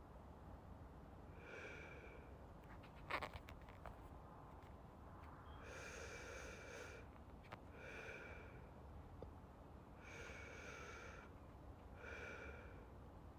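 Soft, slow breathing close to the microphone, a longer and a shorter breath repeating about every four seconds, like someone drifting off to sleep. A single sharp click about three seconds in is the loudest sound.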